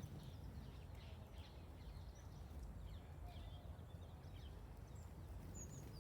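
Small songbirds giving faint, scattered short chirps over a steady low rumble of background noise.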